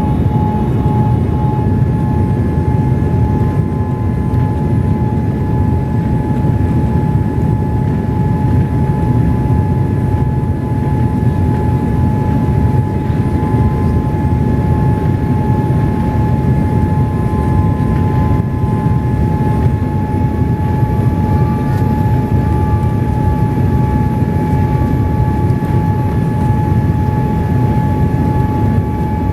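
Jet airliner cabin noise inside a Boeing 787-8 Dreamliner in flight: a steady low roar of engines and airflow with a constant thin whine above it.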